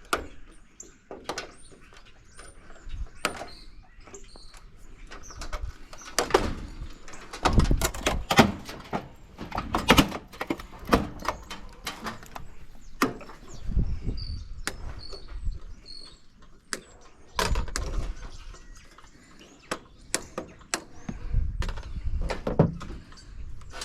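Irregular knocks, clanks and scrapes of sheet metal and parts being pried, pulled and handled as household appliances are broken down for scrap, busiest and loudest from about six to eleven seconds in.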